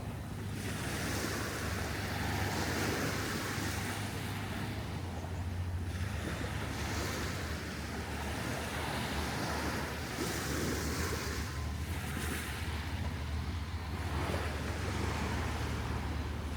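Small surf breaking and washing up the sand, swelling and fading every few seconds, with wind rumbling on the microphone.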